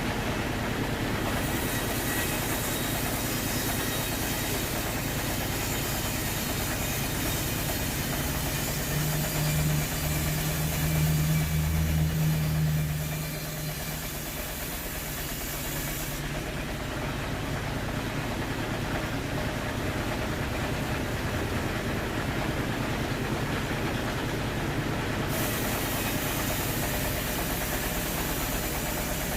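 Sawmill machinery running steadily with a low hum, swelling louder for a few seconds about a third of the way in, then easing back.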